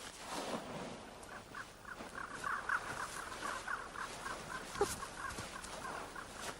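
An animal's chirping calls: a rapid run of short chirps, about four or five a second, starting about a second in and stopping near the end.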